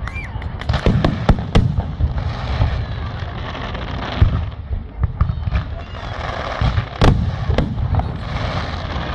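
Aerial fireworks display: shells bursting in a dense run of booms and sharp cracks over continuous crackling, with a rising whistle just after the start and the heaviest bangs about a second and a half in and near seven seconds.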